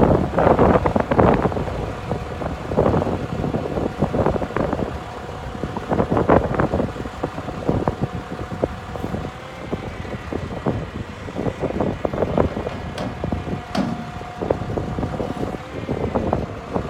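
Bucket truck engine running with the PTO-driven hydraulic pump giving a steady whine while the boom is raised, a higher tone joining about halfway through. Gusty wind buffets the microphone throughout.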